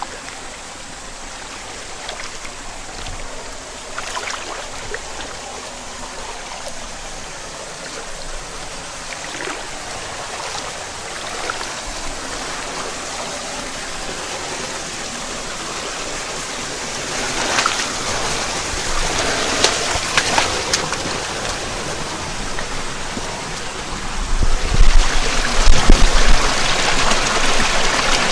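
Mountain headwater stream running and babbling over rocks. It grows louder about two-thirds of the way in, and louder again near the end, where a low rumble joins it.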